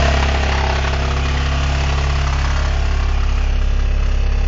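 Toyota Camry engine idling steadily with no oil pressure and a rattle. A broken wrist pin has sent the connecting rod through the side of the block.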